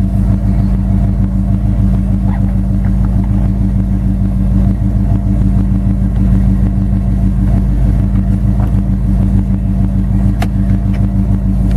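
A 455 cubic-inch Oldsmobile V8 running steadily at an even engine speed, with a deep, rapid exhaust pulse.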